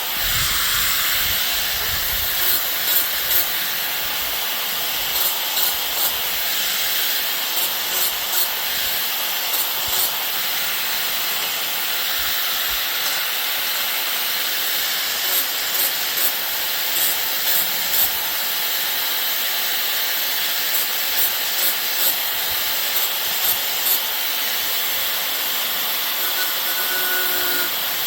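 Electric welding arc running a long bead: a steady sizzling hiss with irregular crackles and pops.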